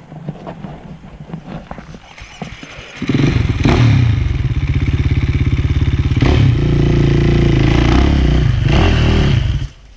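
Enduro dirt bike engine at low revs with knocks and clatter, then opened up hard about three seconds in and held at high revs for about six and a half seconds before shutting off abruptly near the end.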